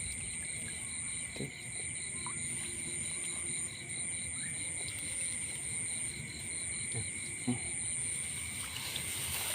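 Chorus of insects chirring steadily in several high pitches, one of them pulsing about four times a second.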